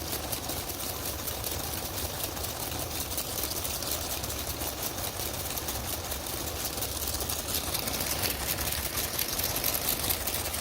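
Lego car wash machine running: small electric motors turning the brushes and conveyor through plastic shafts, a steady whir with rapid, fine clicking.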